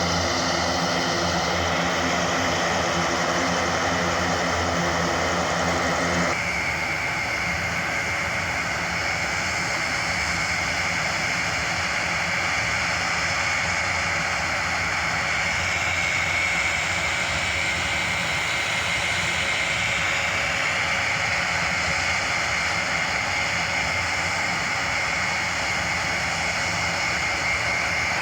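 Airbus A400M's four turboprop engines running, a loud steady drone with a high whine. About six seconds in, the low hum drops away abruptly and a rushing sound with a steady high tone carries on.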